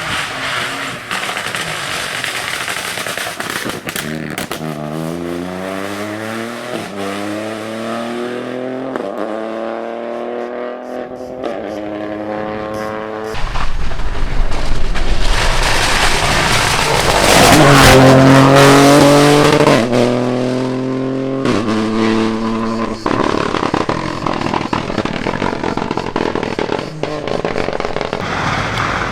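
Rally car engine pulling hard through the gears, its pitch climbing and then dropping at each upshift. It gets much louder about halfway through, is loudest a few seconds later during another run of upshifts, then runs more evenly near the end.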